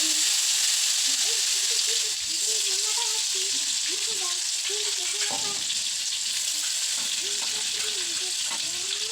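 Freshly ground chili paste (sambal) sizzling steadily in hot oil in a frying pan, the first stage of frying it until fragrant.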